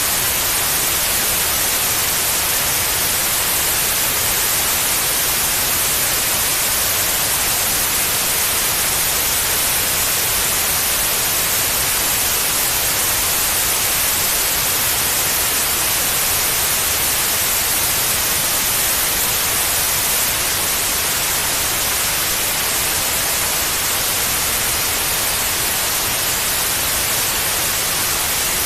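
Steady white noise: an even, unchanging hiss across all pitches, brightest in the highs, played as a sleep aid for babies.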